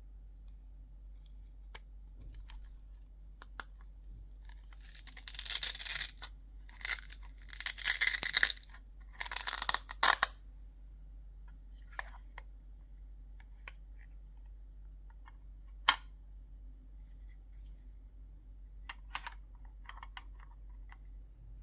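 Packaging being torn and rustled in several bursts, the loudest stretch about five to ten seconds in, followed by scattered light clicks and taps as the small toy pieces are handled.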